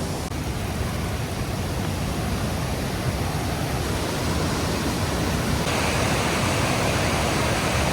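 Steady rush of the waterfall's falling water, a little louder from about six seconds in.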